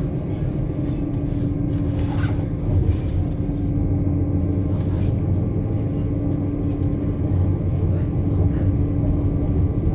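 Passenger train running, heard from inside the coach: a steady low rumble with a constant hum underneath.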